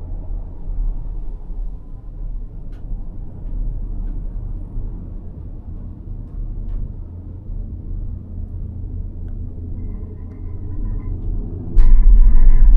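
Low steady rumble of a gondola cabin in motion, with faint ticks now and then. About a second before the end it jumps suddenly to a much louder rumble and rattle.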